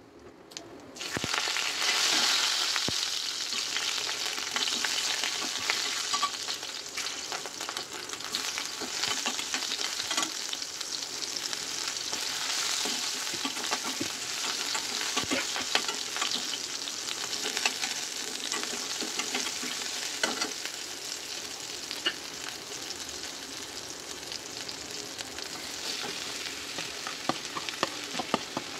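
Hot oil sizzling in a steel pan as a tempering of seeds, dal and asafoetida fries, then sliced onion, green chilli and curry leaves, with frequent sharp crackles and a spatula stirring. The sizzle starts about a second in and keeps up steadily.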